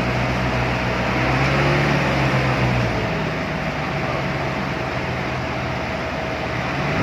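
A vehicle engine running steadily over a continuous noise, its low hum dropping away about three seconds in.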